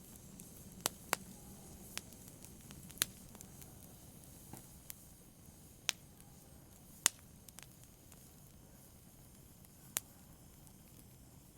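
Wood fire crackling in a fireplace: about ten sharp pops at uneven intervals, the loudest about seven seconds in, over a faint low rustle of burning.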